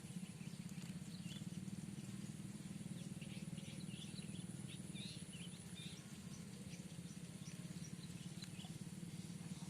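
Outdoor riverside ambience: scattered short high chirps from small animals, thickest in the first half, over a steady low rumble.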